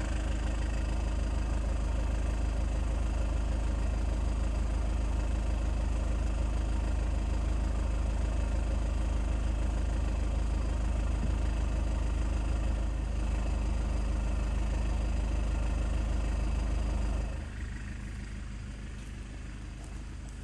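Car engine idling steadily with a low, even hum; about 17 seconds in the engine sound drops away sharply, leaving a fainter low hum.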